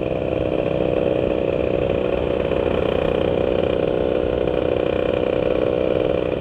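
Two-stroke engine of a Yamaha Sigma motorcycle running at a steady speed. It is fitted with a 30 mm UMA racing carburettor and a Vforce4 reed valve on a 'kodok' intake manifold.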